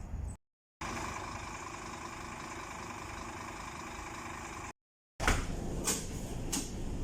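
Scania K230UB bus heard from on board: a steady engine hum with several held tones, cut twice by short dropouts of dead silence, then rattling and sharp knocks from the bus body.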